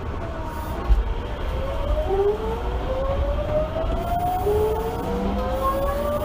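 Osaka Municipal Subway 66 series electric train under way, heard from inside the car: over the wheel and track rumble, the traction motor whine rises steadily in pitch as the train accelerates, stepping to a new rising tone about halfway through.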